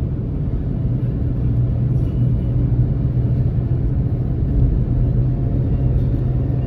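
Nissan Magnite car driving at highway speed: steady engine and tyre noise, a low even rumble.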